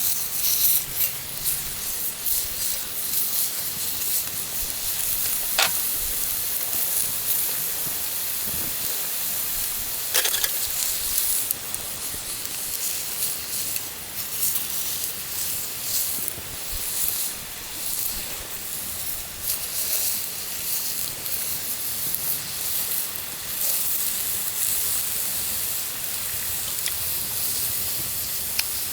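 Food frying in a hot pan, sizzling steadily with scattered crackles and a couple of sharper pops.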